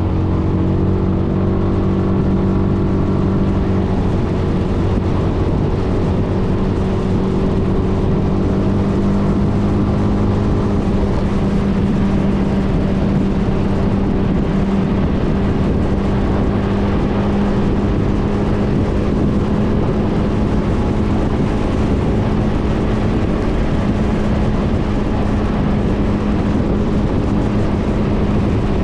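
Suzuki Burgman 400 scooter's single-cylinder engine running at a steady pitch, with a constant noisy hiss under it.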